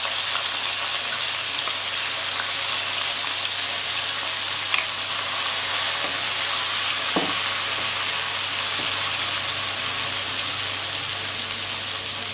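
Salt-soaked lemon pieces and their brine sizzling steadily in hot sesame oil in an aluminium kadai, stirred with a wooden spatula, with a few small pops.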